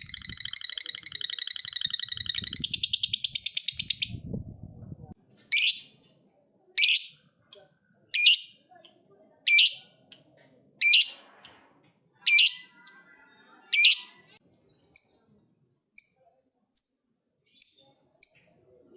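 Lovebird's long, rapid chattering trill (the 'ngekek') for about four seconds. It then breaks into single sharp, high chirps about every second and a half, which come faster, under a second apart, near the end.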